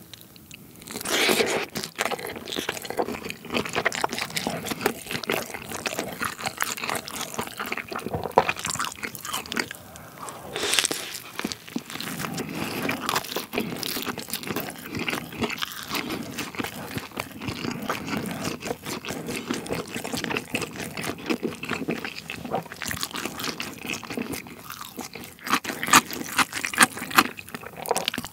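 Close-miked chewing and biting of a thick, heavily cheesed pizza: a steady run of sticky, wet chewing sounds mixed with crunches of the crust. Sharper, louder crunches come near the end.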